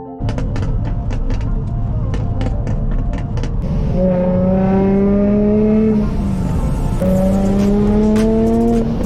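Car engine accelerating hard under load: its pitch climbs steadily for about two seconds, drops briefly at a gear change, then climbs again. Music plays underneath.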